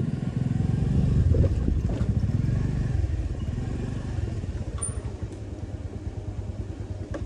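Motorcycle engine running under way, the low firing pulses louder over the first few seconds, then settling to a steadier, slightly quieter run.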